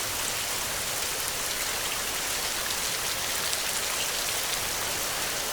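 Heavy rain falling steadily: a dense, even hiss with fine spatters of drops hitting a surface.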